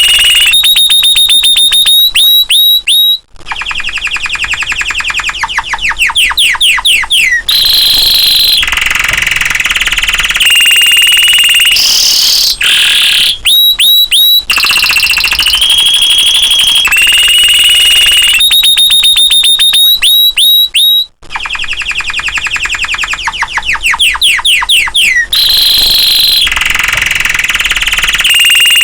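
Domestic canary in full song: long runs of rapid trills, held high whistled notes and quick falling sweeps, with only brief pauses between phrases.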